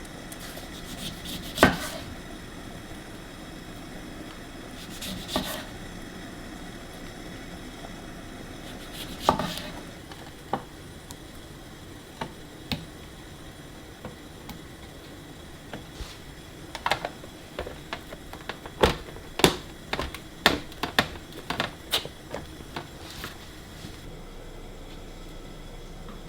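Kitchen prep sounds: scattered knocks and clicks of utensils and containers being handled. In the second half comes a quicker run of sharp taps about half a second apart, like a knife on a cutting board.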